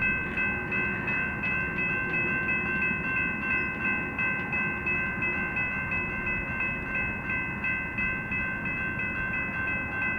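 Railroad grade-crossing bell ringing steadily at about three strokes a second, over the low rumble of a train.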